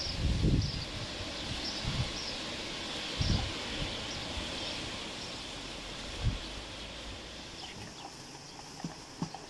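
Outdoor rural background with a bird repeating a short high chirp in the first few seconds. Several dull low thuds come and go, and a few faint clicks begin near the end.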